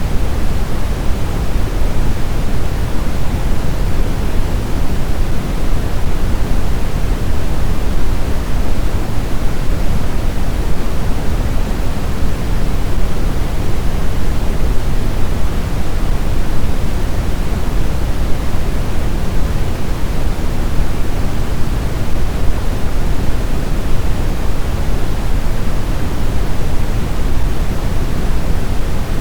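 Snowstorm wind as a steady, even rush, deepest in the lows, with no gusts, whistling or changes.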